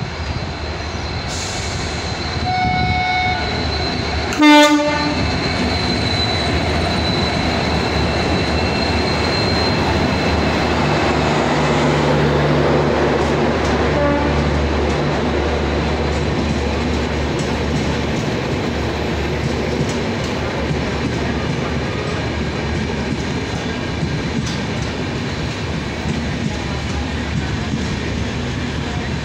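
A passenger train's locomotive horn sounds, with a fainter blast and then a short loud one about four seconds in. Then the train runs past close by: a steady rumble, with wheels clattering over the rail joints as the coaches go by.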